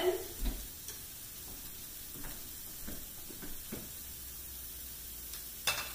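Shallots, ginger and lemongrass sizzling steadily in hot oil in a wok, with a few faint clicks and one short sharp noise near the end.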